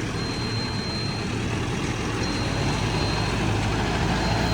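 Tractor diesel engine running steadily, growing slightly louder toward the end. A faint high whine comes and goes about every two seconds.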